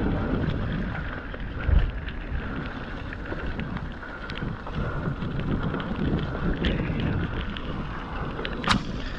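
Mountain bike riding a wet, rocky trail: wind buffeting the microphone over the rumble of tyres on rock, with a scatter of clicks and rattles from the bike. There is a heavy knock about two seconds in and a sharp clack near the end.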